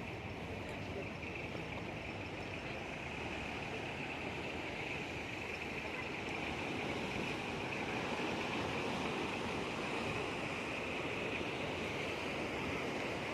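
Sea waves washing on the shore: a steady rush of surf that swells slightly about halfway through.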